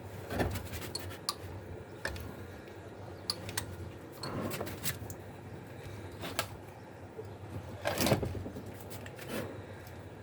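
Hand-starting attempt on a Hatz diesel engine: irregular rattling and clanking strokes of the starting handle and decompression device, about every couple of seconds, over a low hum. The engine does not catch, which the owner puts down to its very high compression.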